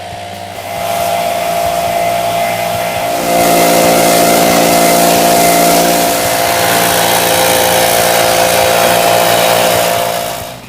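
A petrol engine running steadily, then louder and higher about three seconds in as it is revved and held, dropping away near the end.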